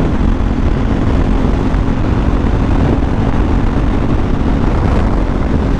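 Superbike engine running at a steady highway cruise, a constant engine tone under heavy wind rush on the rider's microphone.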